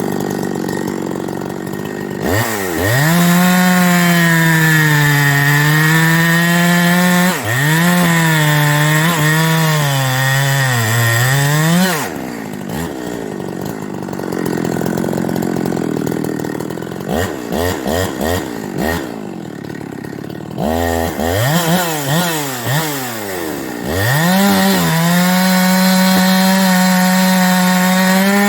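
Ported Farmertec 372XP-clone two-stroke chainsaw cutting firewood from an ash tree: it revs up from idle and runs at full throttle through a long cut, the pitch sagging and wavering as the chain bites. It drops back to idle, is blipped several times in quick succession, then revs into another cut near the end.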